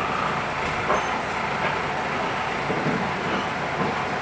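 Running noise inside a JR West 221 series electric train: a steady rumble of the car and its wheels on the rails, with a brief click about a second in.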